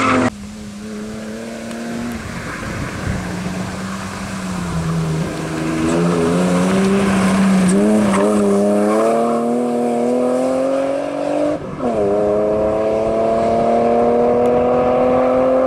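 Car engine working at high revs. Its pitch wavers for a few seconds, then climbs slowly in two long pulls, with a sudden break about 12 s in.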